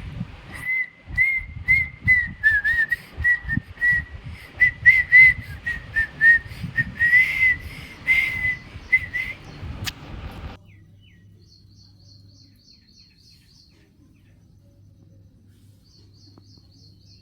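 A run of high whistled notes wavering around one pitch, over low rumbling and sharp knocks. It all cuts off abruptly about ten seconds in, leaving faint, evenly spaced high ticks and a low hum.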